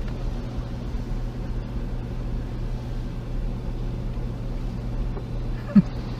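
Automatic car wash machinery running, heard from inside the car: a steady low hum and rumble with a faint hiss. Near the end there is one brief, loud, high squeak.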